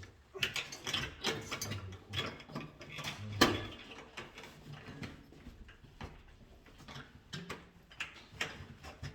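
Irregular clicks and clatters of tools and small parts being handled during electrical wiring work, the loudest knock about three and a half seconds in.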